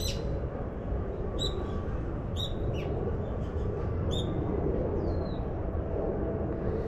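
A bird giving short, high chirps, about five or six in as many seconds, some dropping in pitch, over a steady low outdoor rumble.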